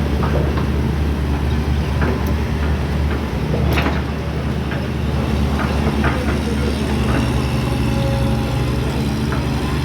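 Excavator's diesel engine running steadily, with scattered knocks from the working machine and a louder knock a little under four seconds in.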